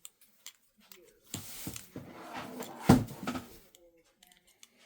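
Die-cutting craft materials being handled: paper rustling for about two seconds, with a few knocks, the loudest near three seconds in.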